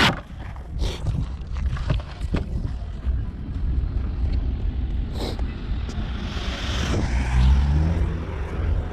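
A car driving past on the road, its tyre and engine noise swelling to a peak about seven and a half seconds in and then fading, over a steady low rumble of wind on the microphone.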